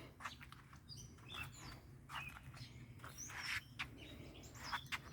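Faint birds chirping: a scattering of short, high calls over a faint low hum.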